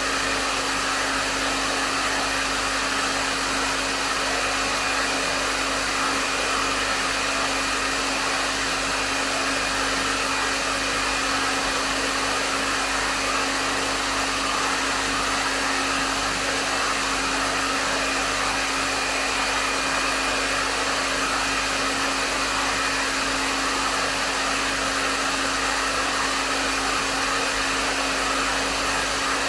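Hair dryer running steadily at a medium setting: an even rush of airflow with a steady motor hum underneath.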